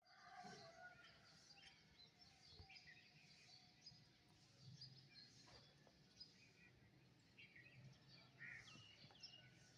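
Faint outdoor birdsong: several small birds chirping and trilling in short scattered calls, over a low steady hum.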